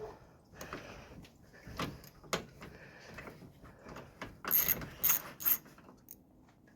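Hand ratchet clicking and metal parts clinking as a radiator hold-down clamp bolt is undone, in uneven short runs of clicks with three sharper clicks close together about five seconds in.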